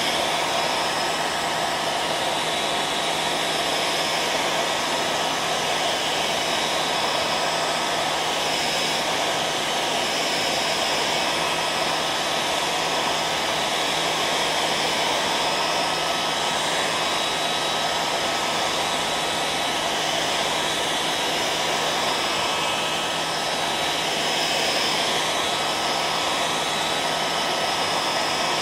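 Hairdryer running steadily: an even rush of blowing air with a constant motor whine.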